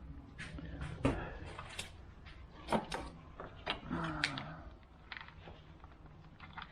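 Scattered clicks and knocks of hand tools and metal parts being handled, with a brief low mumble about four seconds in.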